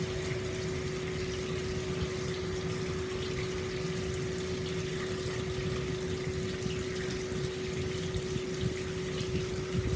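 Hot-spring water pouring steadily into an open-air bath, a continuous splashing rush with a steady hum underneath.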